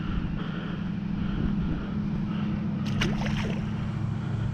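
Steady low engine hum running without change, with a brief high chirp about three seconds in.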